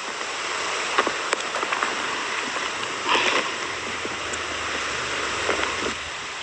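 Strong wind rushing steadily through the tree canopy, with a few clicks and rustles about a second in, a brief louder rustle about three seconds in, and a few more small ticks near the end.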